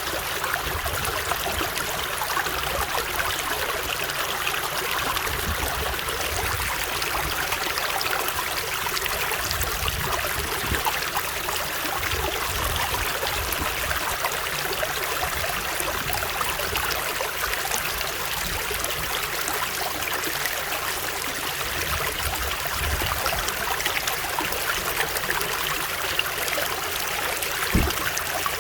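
Running water of a stream flowing steadily, with a low rumble that swells and fades underneath and a brief low thump near the end.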